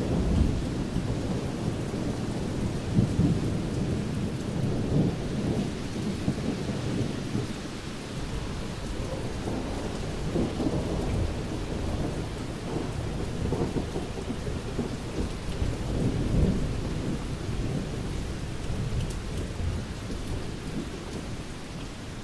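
Thunderstorm: steady rain with continuous rolling thunder, swelling into louder rumbles several times.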